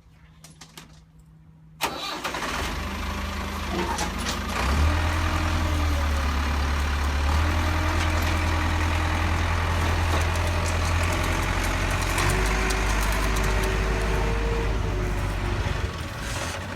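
A vehicle engine starting suddenly about two seconds in, then running steadily with a deep hum and slight shifts in pitch.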